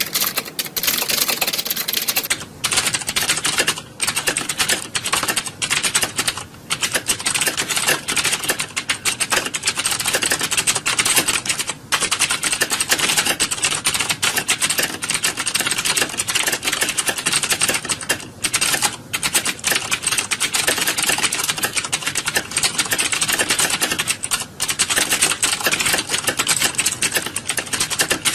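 Computer keyboards clattering, many keys pressed at once in a dense, continuous stream of clicks, with brief dips now and then, as in a hall full of people sitting a typing test.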